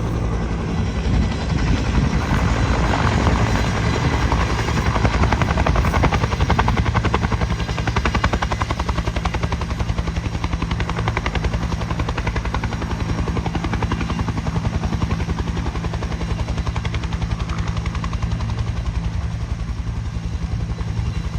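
Bell UH-1 'Huey' helicopter running, its two-blade main rotor giving a fast, even beat over the steady drone of the turbine. It gets suddenly louder at the start and keeps going without a break.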